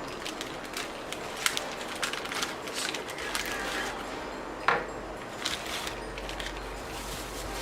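Packaging being handled and opened to get at a hole reamer and a pair of Lexan scissors: scattered crinkles and clicks, with one sharper knock a little past the middle.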